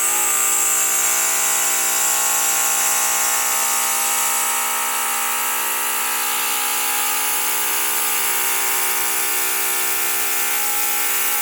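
Electric balloon pump running steadily with a buzzing motor hum, blowing air into an inflatable beach ball.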